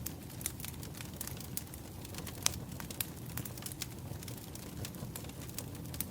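Firewood burning with irregular sharp crackles and pops over a low steady rumble; one louder pop about two and a half seconds in.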